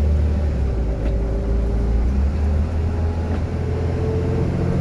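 Steady low engine and road rumble heard from inside a truck's cab while driving.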